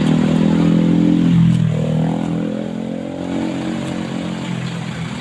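Heavy truck's diesel engine running under load. Its pitch drops about a second and a half in, then climbs again as it pulls.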